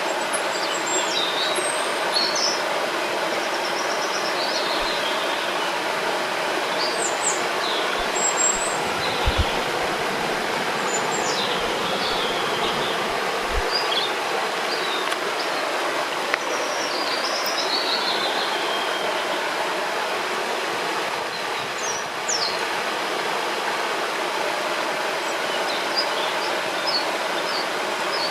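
Steady rushing of a river or waterfall, with several small birds chirping and whistling over it throughout. A few brief low thumps come near the middle.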